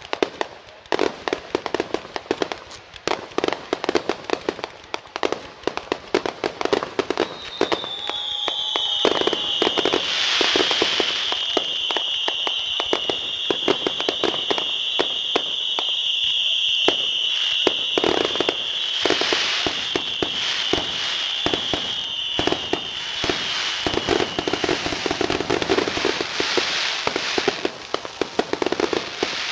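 Fireworks finale: a rapid, nearly unbroken barrage of bangs and crackling reports, growing denser and louder about eight seconds in. A high, steady whistling hiss runs through the middle of the barrage, fading away near the end.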